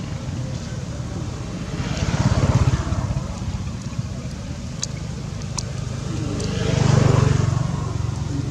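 Low motor rumble that swells and fades twice, as of vehicles passing, with a few faint clicks.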